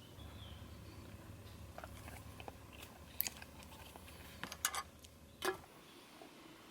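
A few sharp, crisp crunches of someone biting and chewing crunchy food, over a low steady hum that stops about two-thirds of the way in.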